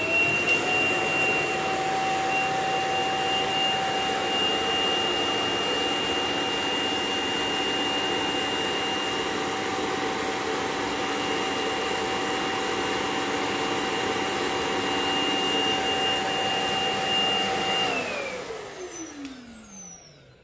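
Roborock S7+ auto-empty dock's suction motor evacuating the robot's dust bin: a loud, steady whine with airflow noise that winds down with a falling pitch near the end.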